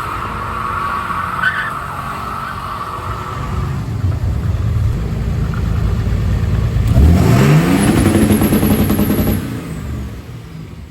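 Truck engine running, then revved hard about seven seconds in, its pitch climbing fast and held high for about two seconds before it drops off.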